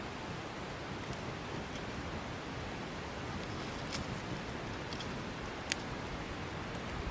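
Wood fire burning: a steady hiss with a few sharp crackling pops, one about four seconds in and another just before the end.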